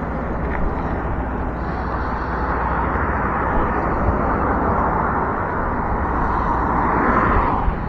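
Wind buffeting the microphone over tyre and road noise while riding a fat-tire electric bike, with a hiss that swells and then cuts off abruptly near the end.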